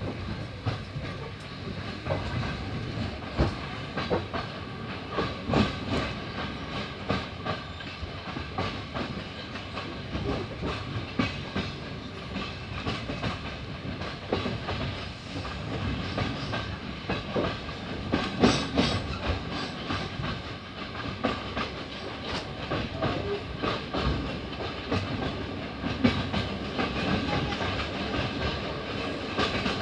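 Passenger train running on the rails, heard from inside the carriage: a steady rumble with wheels clicking over rail joints, and a few louder knocks, one about two-thirds of the way in.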